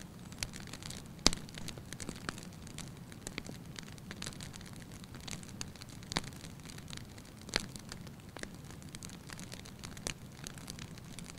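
Wood fire crackling in a fireplace: irregular sharp pops, the loudest a little over a second in, over a low steady rumble of the flames.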